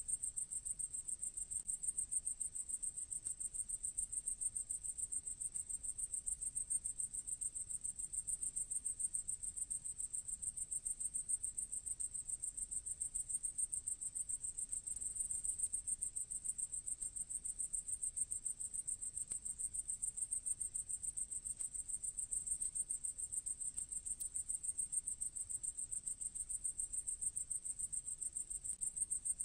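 Orthopteran insect (grasshopper/cricket family) stridulating: a continuous high-pitched trill made of rapid, even pulses that never breaks.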